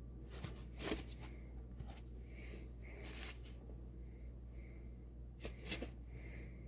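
Faint, scattered scratching and small knocks of hands working at the plastic blower tube, over a steady low hum.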